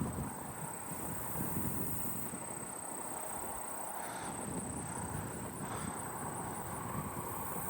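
A steady, high-pitched insect buzz, with faint rapid ticks above it through the middle, from what the listener takes for agile meadow katydids calling. Wind rumbles on the microphone underneath.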